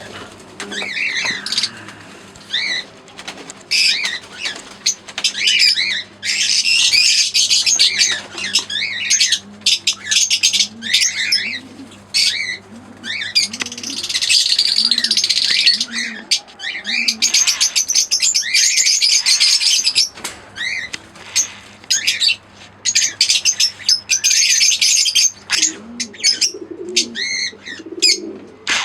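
Lovebirds chattering in rapid, shrill chirps, with several long runs of continuous chatter. Low, repeated cooing calls sound underneath, over a steady low hum.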